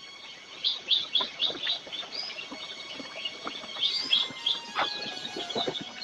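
Small birds chirping: quick runs of sharp chirps about a second in and again around four seconds in.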